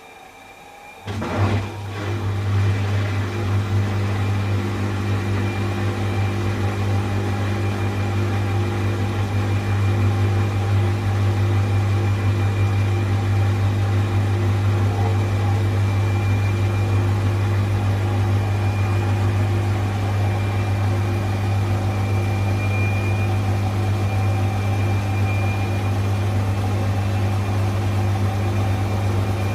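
A steady mechanical hum with a low fundamental tone and a faint high whine, starting abruptly about a second in and holding unchanged in pitch and loudness.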